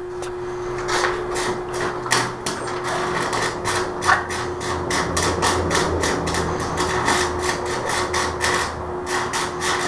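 Electric arc welder welding an exhaust muffler back on: a dense, irregular crackling and spattering of the arc, several cracks a second, with a steady hum under it.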